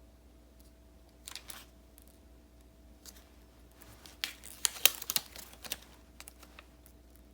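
Hands handling paper stationery and stickers: a couple of soft clicks about a second in, then a cluster of crisp clicks, taps and rustles about four seconds in.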